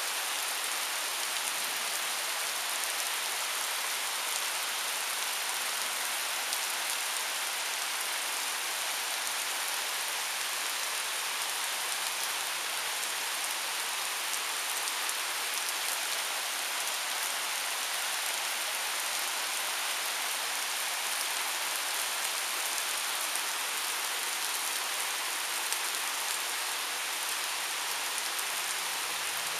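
Heavy thunderstorm rain pouring down steadily on trees, lawn and asphalt pavement, an even hiss with no let-up.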